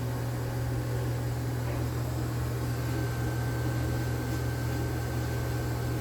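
Steady low mechanical hum at an even level, with a faint thin whine joining about halfway through.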